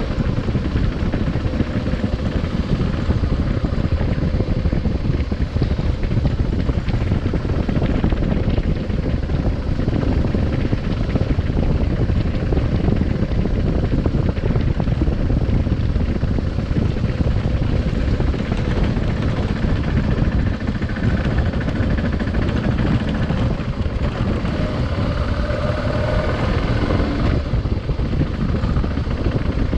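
Adventure motorcycle riding along, its engine running with wind rushing over the microphone; the engine pitch drifts up and down slightly.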